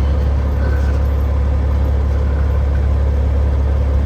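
Heavy truck's diesel engine running steadily: a strong, even low drone with no change in pitch.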